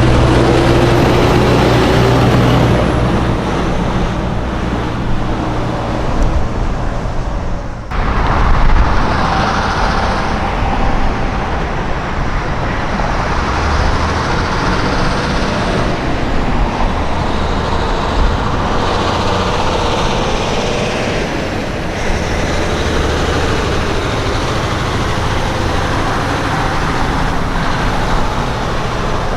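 Semi trucks driving past on the road, with engine and tyre noise. The sound breaks off abruptly about eight seconds in and picks up again at once with more passing traffic.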